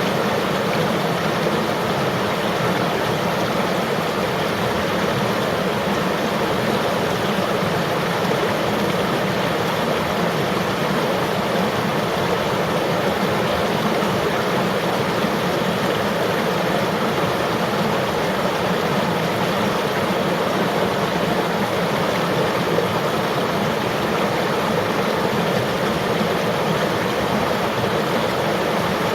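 River water flowing, a steady unbroken rush of running water.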